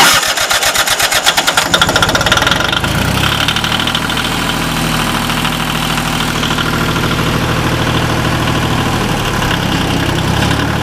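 1981 John Deere 850's Yanmar diesel engine being started: the starter cranks it over in quick even strokes for about two seconds, then it catches and settles into a steady idle.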